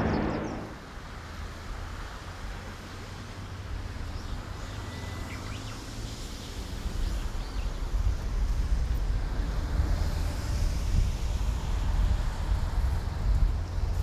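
Boeing 787-9 airliner on final approach passing low overhead, its engine whine and rumble dropping away sharply in the first second. A low, distant jet rumble follows, mixed with wind buffeting the microphone, growing louder in the second half.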